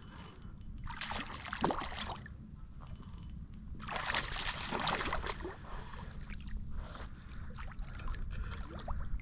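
Water splashing and sloshing beside a kayak in irregular bursts, the two biggest about a second in and about four seconds in, with small knocks and clicks between.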